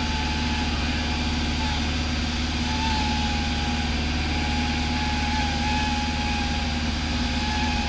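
Cessna 172 light aircraft engine droning steadily in cruise, heard inside the cabin, with a faint wavering high tone above it.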